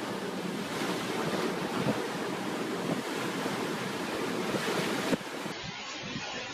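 Storm-force wind blowing over the microphone, a steady rushing noise with a few faint knocks. About five seconds in, the sound changes abruptly to a quieter, duller noise.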